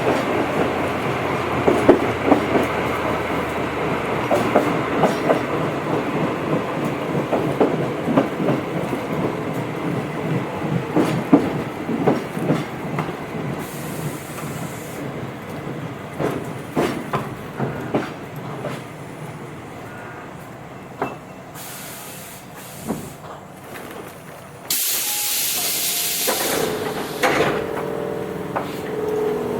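Interior running sound of a Tobu 8000 series electric train braking to a stop: wheels clicking over rail joints, the clicks spacing out and the rumble fading as it slows. About 25 seconds in, a loud burst of air hiss lasts about two seconds, typical of the air brakes or pneumatic doors venting at the stop. A pitched sound starts near the end.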